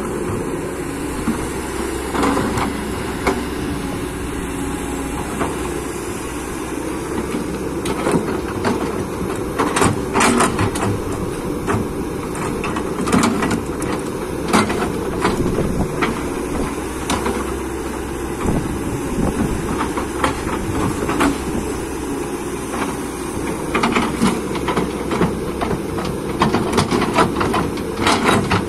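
Hydraulic excavator's diesel engine running steadily under load, with irregular knocks and clanks as the bucket digs and moves earth.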